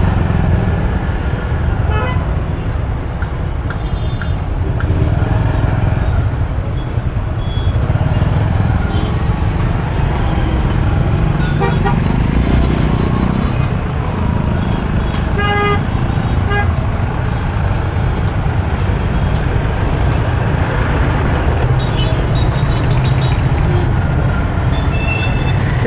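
City traffic heard from a moving motorbike: a steady rumble of engines, road and wind. Vehicle horns toot several times, one of them held for a few seconds early on.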